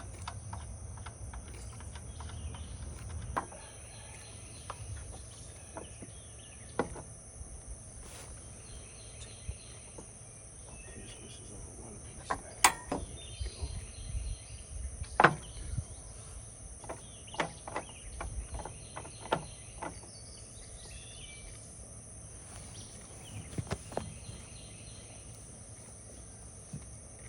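Scattered clicks, clanks and knocks of hand tools and metal parts on a Toro TurfMaster HDX lawn mower during a drive-belt repair, with two sharper knocks about halfway through. Under it runs a steady high drone of insects, with occasional bird chirps.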